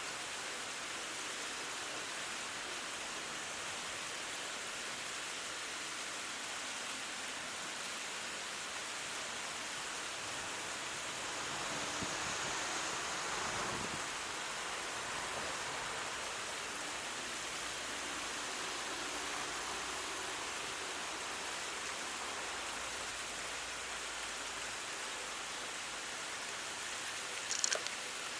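Steady rushing noise of flowing water, swelling slightly about halfway through, with a few short, sharp high sounds near the end.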